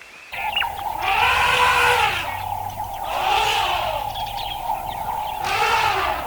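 Three drawn-out animal calls, each rising and then falling in pitch, over a steady high hum.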